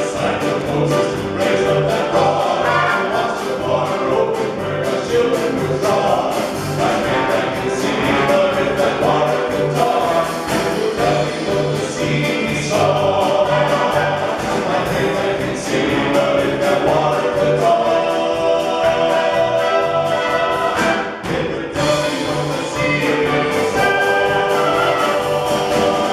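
A gospel vocal group singing a fast song in harmony over full instrumental accompaniment with a quick, steady beat.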